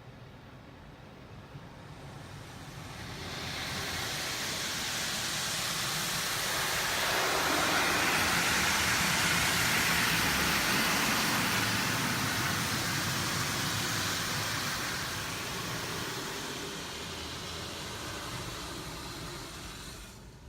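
Belanger Freestyler automatic car wash heard from inside the car: a rushing hiss from the wash machinery sweeping over the car builds up over a few seconds, is loudest in the middle, then slowly fades away near the end.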